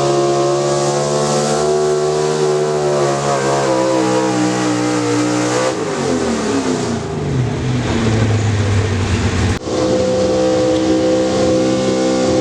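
Engine of a pulling vehicle running hard at high revs under load. About six seconds in the revs fall away to a low note. Near the end the sound switches abruptly back to an engine held at high revs.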